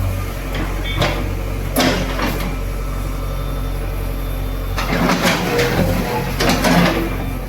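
JCB 3DX backhoe loader's diesel engine running steadily, with a couple of sharp knocks early on and, from about five seconds in, a spell of crunching and clattering as masonry breaks and falls.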